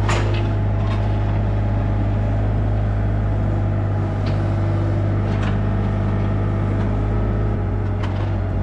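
An engine running steadily with a low, even hum, with a few short clicks and knocks over it.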